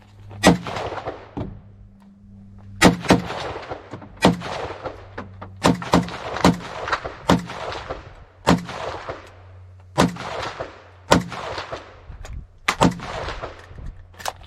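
A string of single gunshots at an outdoor range, fired one at a time about a second apart, some closer together, each followed by an echoing tail.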